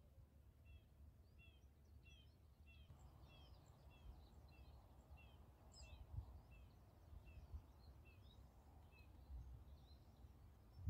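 Faint birdsong: one bird repeating a short, downward-slurred chirp about twice a second, with a few other chirps scattered around it, over a low rumble.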